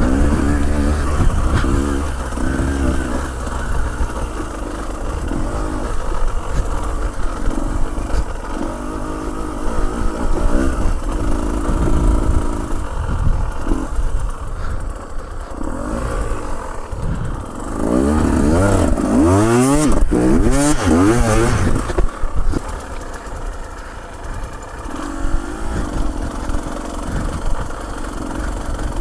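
Motorcycle engine running on a rough dirt track, its revs rising and falling as the rider works the throttle. About two-thirds of the way through comes a few seconds of hard revving with the pitch sweeping up and down, before it settles back.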